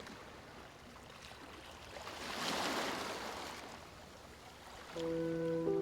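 Soft rushing noise, water-like, swelling about two seconds in and easing off. Near the end, sustained music notes come in and hold.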